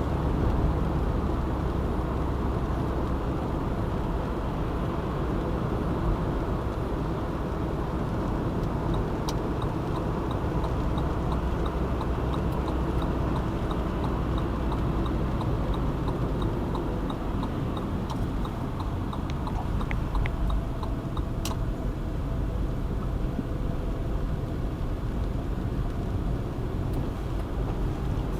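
Steady road and engine noise of a car driving in city traffic. From about a third of the way in, a light regular ticking runs for about ten seconds, and a single sharp click comes a little past two-thirds through.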